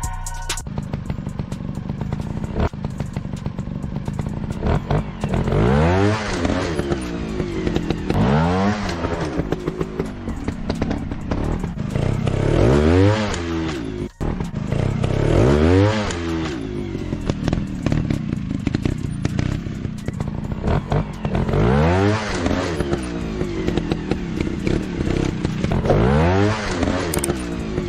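Dirt-bike engine rising and falling in pitch in about six swells, over a steady lower engine rumble, with clattering and scraping beneath.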